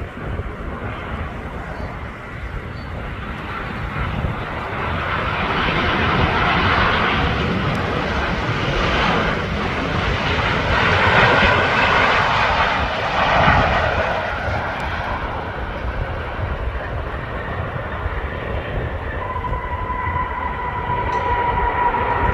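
Jet airliner engines passing by: the engine noise swells from a few seconds in, is loudest around the middle, then fades, leaving a steady whine near the end.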